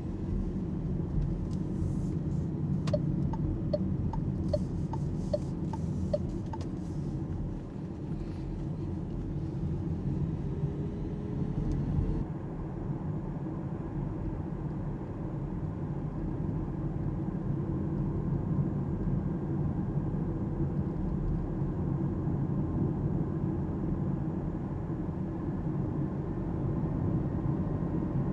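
Steady low road and tyre rumble inside the cabin of an Alpine A390 GT electric car on the move, with no engine note. A few seconds in, a short run of quick, evenly spaced ticks alternates between a higher and a lower pitch.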